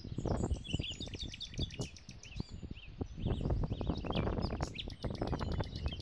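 Small birds chirping: many short, quickly repeated chirp notes over a low rumble of background noise.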